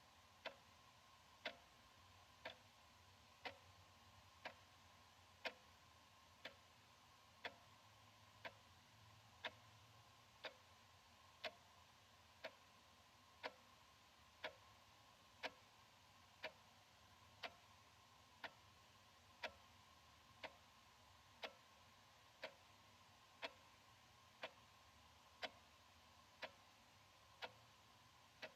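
Analog wall clock ticking steadily, one sharp, faint tick a second.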